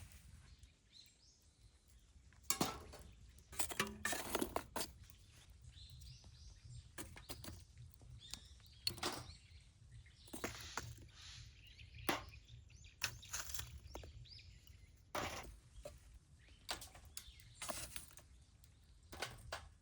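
Wood fire crackling in a fire pit, with sharp irregular pops and snaps over a low steady rumble.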